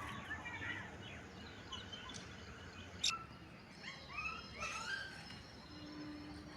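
Birds calling: scattered short chirps and quick rising calls, with a sharp click about three seconds in, over a steady background hiss.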